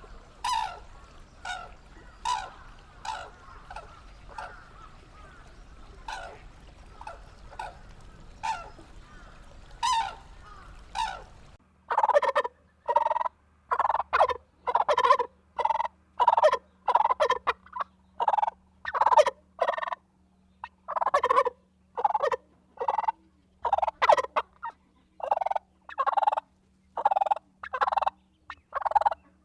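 A large bird calling over and over in short, loud calls. About twelve seconds in, the background hum drops away and the calls come faster and louder, one after another.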